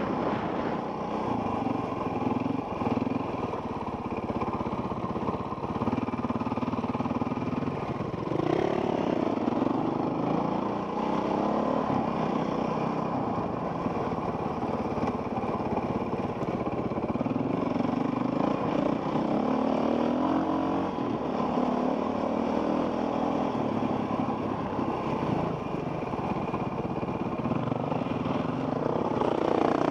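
Enduro dirt bike engine heard from a helmet camera while riding a trail, its pitch rising and falling with the throttle, with a clear rev-up about eight seconds in and another near the end, over a steady rush of wind and rattle.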